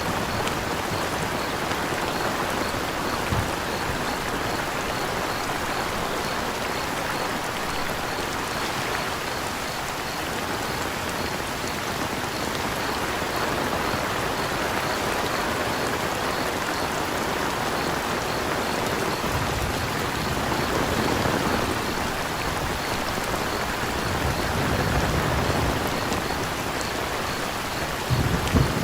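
Steady gentle rainfall with crickets chirping evenly through it. A few low rumbles swell up in the second half.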